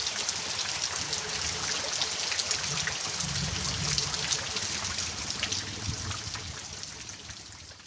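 Steady rain falling, with many separate drops splashing and dripping, fading out over the last few seconds.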